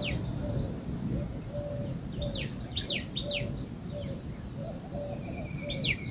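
Birds chirping in the background, a bout of quick, steeply falling chirps about two seconds in and another near the end, over a steady low hum.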